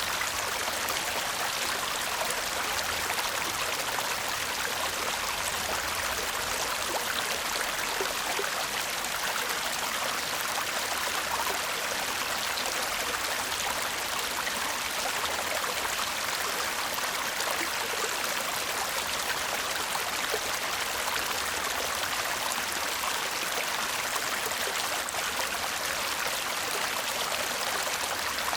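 A shallow stream babbling and trickling steadily over stones, a continuous bright rush of water full of small splashes.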